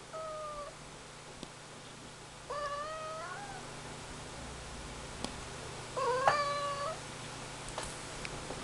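Ragdoll cat meowing three times: a short meow near the start, then two longer meows, the middle one rising in pitch at its end.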